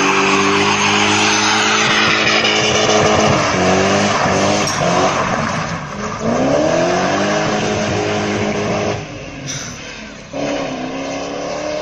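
Car engine held at high revs while the tyres squeal in a drift. The revs dip and climb again a few times, with a lull of a second or so before the last climb.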